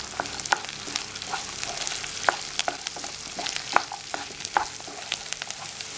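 Shallots, curry leaves and whole spices sizzling in a little oil in a non-stick kadai as a wooden spatula stirs them: a steady sizzle with scattered sharp clicks. They are being sautéed for a ground masala.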